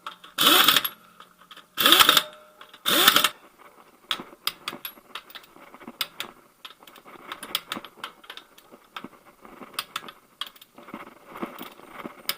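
Car wheel bolts being tightened. In the first three seconds a wrench spins them in with four short, loud bursts. For the rest of the time a torque wrench ratchets with a run of sharp clicks as the bolts are brought to torque.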